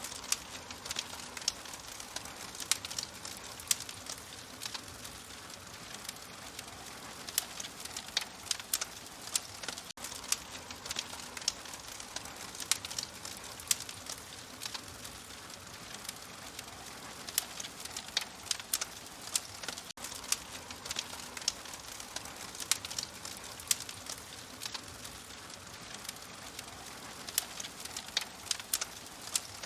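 Open fire crackling: irregular sharp pops and snaps over a steady hiss, dropping out for an instant twice.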